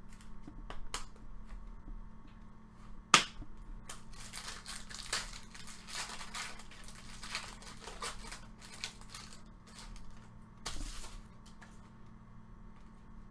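Baseball trading cards and plastic card sleeves being handled close up: papery rustling and crinkling with scattered clicks, a sharp snap about three seconds in and a second burst of rustling near the end.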